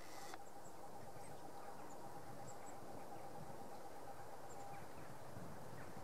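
A few faint, very short, high-pitched bird calls scattered over steady outdoor background noise. A thin steady tone runs under them and stops just before the end.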